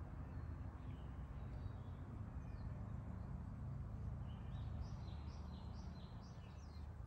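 A small bird singing a run of about seven quick, high chirps, each falling in pitch, starting about four and a half seconds in, over a steady low background rumble.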